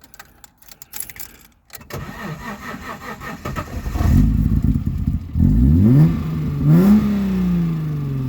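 Alfa Romeo GTV6's 2.5-litre Busso V6 starting: a few clicks, then the engine turns over and catches about two seconds in. It is revved twice, its pitch rising and falling each time, and settles to a steady idle.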